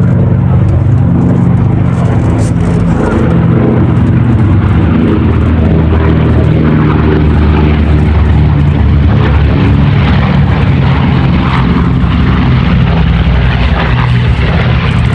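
Piston engine of a propeller-driven warbird running: a loud, steady drone whose pitch drifts slightly, with more mid-range roar in the second half.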